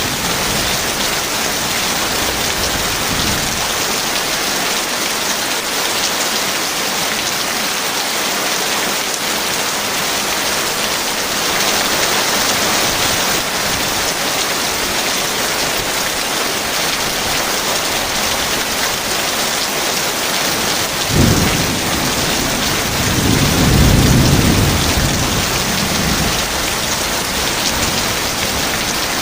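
Heavy rain falling steadily, with a sharp thunderclap about two-thirds of the way through, followed by a low rumble of thunder that swells and fades over a few seconds.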